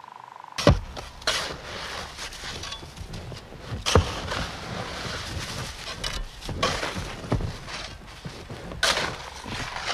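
Digging sound effects for a garden fork working through loose material: irregular thuds and sharp knocks over rough crunching and scraping. The loudest knocks fall just after the start and about four seconds in.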